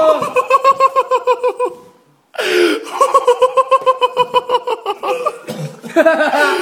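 People laughing hard, in rapid high-pitched ha-ha pulses at about seven a second, breaking off briefly about two seconds in and then starting again.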